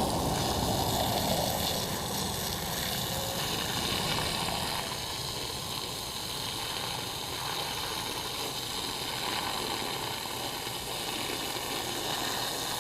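Garden hose spraying water onto dirt, a steady hiss and splatter that soaks the ground to mud; a little louder in the first couple of seconds.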